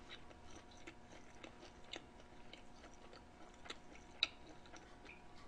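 Faint close-miked chewing of grilled pork trotter (jokbal): soft wet mouth clicks, with a few sharper ticks around two and four seconds in, over a faint steady hum.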